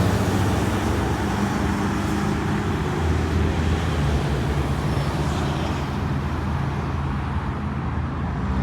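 Car engine running at low revs with a steady low hum that weakens after the first couple of seconds, over background traffic noise.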